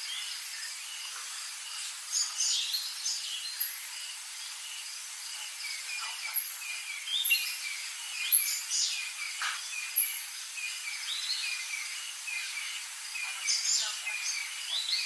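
Several birds calling and singing in overlapping short chirps and phrases, over a steady hiss of insects.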